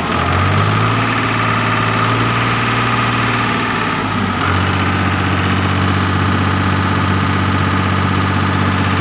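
Escort Powertrac 445 DS tractor's diesel engine running at a steady idle, its note settling slightly lower about four seconds in.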